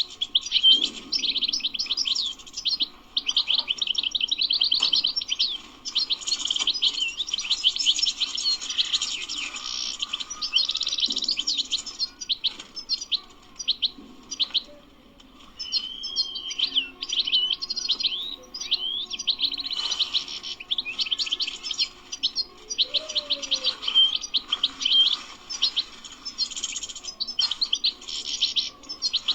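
European goldfinch singing: a long, fast twittering song of rapid high chirps and trills, pausing briefly about halfway through before carrying on.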